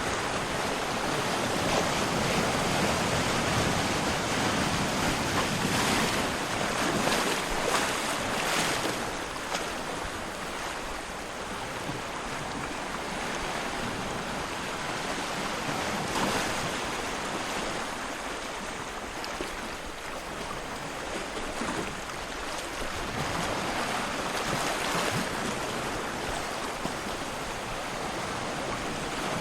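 Ocean surf: a steady rush of waves breaking and washing in, swelling and easing every several seconds.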